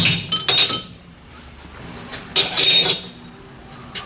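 Steel differential parts clinking and knocking against each other: a few sharp metallic strikes at the start, then a ringing clatter a little past the middle.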